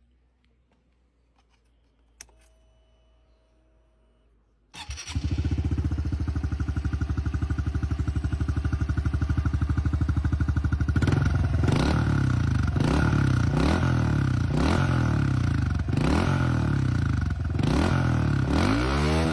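Honda CRF110 single-cylinder four-stroke engine starting about five seconds in after a near-quiet stretch with one sharp click, then idling steadily. From about eleven seconds on it is repeatedly blipped, each rev rising and dropping back, roughly once a second.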